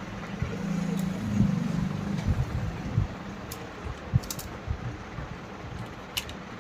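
A low, steady hum with scattered sharp clicks and knocks, like tools and metal parts being handled during a repair.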